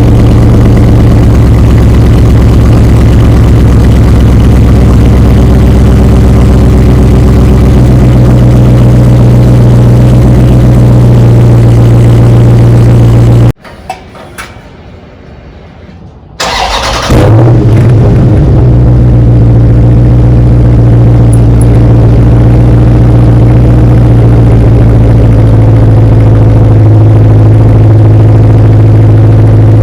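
Dodge Charger Scat Pack's 6.4-litre HEMI V8 on its stock exhaust, running loud at cold idle. About halfway through the sound breaks off, and after a few quieter seconds the engine cranks and fires, then settles back into a loud, steady cold idle.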